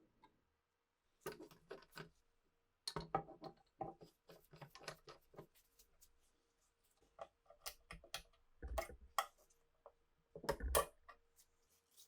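Irregular clicks, taps and clinks of tools and hard parts being handled and set down on a workbench, with louder knocks in clusters around the middle and near the end.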